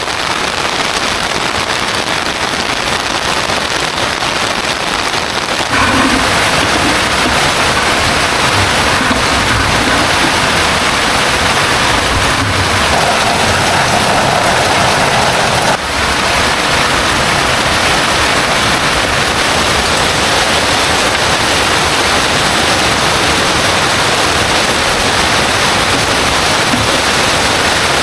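Heavy rain falling steadily in a dense, loud hiss, changing abruptly in character twice, about six and sixteen seconds in.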